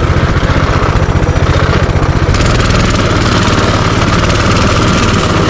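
Minibike's small engine running steadily with a fast low pulsing; about two seconds in, the engine note lifts slightly and a hiss rises over it.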